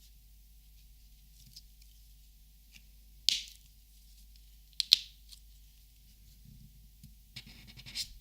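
Copic markers being handled, making sharp plastic clicks: one a little over three seconds in and a quick double click near five seconds. A short crackly rustle follows near the end.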